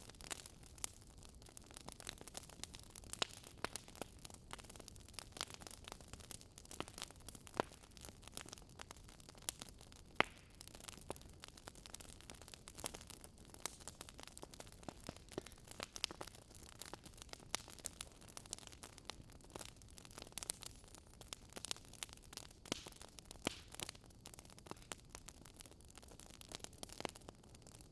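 Quiet crackling of a wood fire: irregular sharp pops and snaps, several a second, over a faint steady hiss, with one louder pop about ten seconds in.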